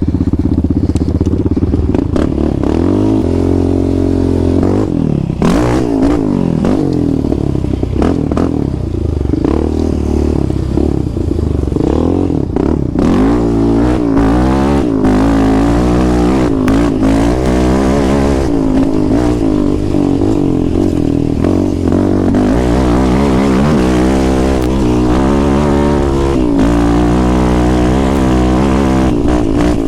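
ATV engine being ridden hard, its pitch rising and falling with throttle and shifts, with short clatters and knocks from the machine over rough ground.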